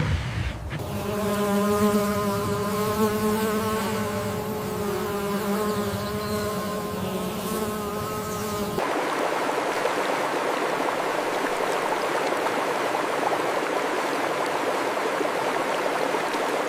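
A flying insect buzzing in one steady, even drone for about eight seconds. It cuts off suddenly and gives way to a steady rushing hiss, like running water.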